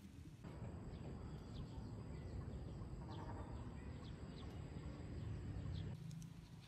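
Faint low rumbling background noise with a few short, high, falling bird chirps scattered through it.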